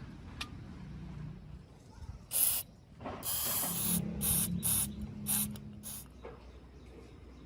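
Aerosol spray can hissing in six bursts: a short spray, then a longer one of about a second, then four short sprays in quick succession.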